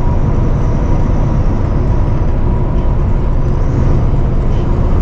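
Semi-truck driving down the road, heard from inside the cab: a steady low engine drone under road and tyre noise, with a faint steady whine on top.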